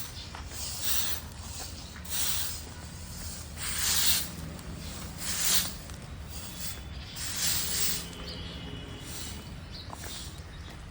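Crows cawing, a harsh call every second or two, over a steady low background rumble.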